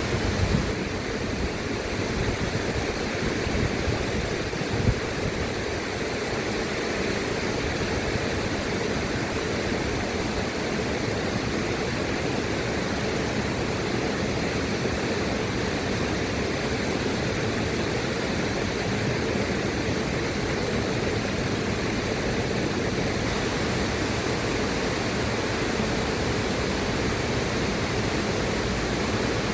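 River water rushing in a steady, even stream of noise, with a brief knock about five seconds in.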